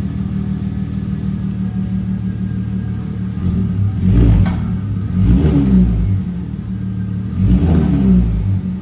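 2010 Cadillac CTS's 3.6 LLT V6 idling through a freshly cut exhaust with the mufflers removed, revved up and back down three times.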